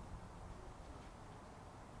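Faint, steady low background rumble with no distinct event.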